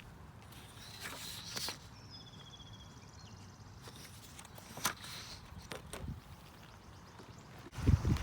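Footsteps outdoors with scattered light clicks and rustles, ending in a louder low rumble near the end.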